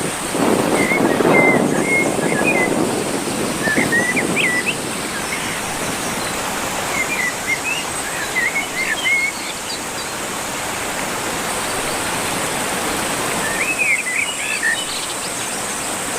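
River water rushing steadily, with a bird's short chirping calls coming in several bursts over it.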